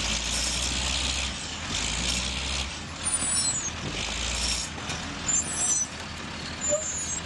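A heavy truck or construction machine running with a low rumble and a noisy hiss, broken by a few brief high-pitched squeals.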